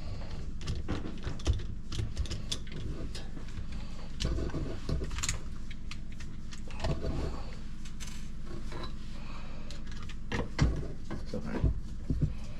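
Irregular metallic clicks, clinks and knocks of hand tools and parts being handled while a dishwasher drain pump is taken out, with a few louder knocks near the end, over a steady low hum.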